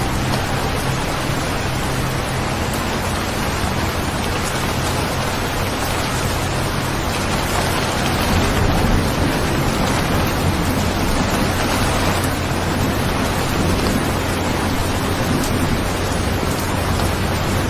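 Steady heavy rain falling, a continuous even hiss, swelling slightly a little past the middle.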